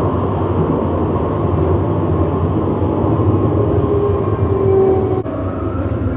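Tram running, heard from inside the car: a steady low rumble of motors and wheels on rail. A tone rises out of it about four seconds in and cuts off just after five seconds, where the noise eases slightly.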